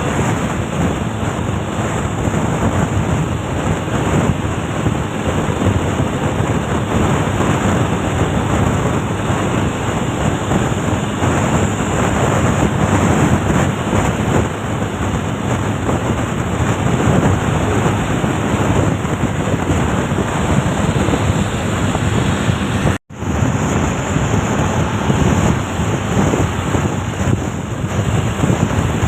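Strong wind buffeting on the microphone over steady vehicle and road noise, with a brief dropout about 23 seconds in.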